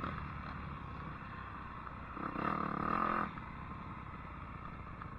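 Dirt bike engine running low, with a short burst of throttle about two seconds in that lasts about a second.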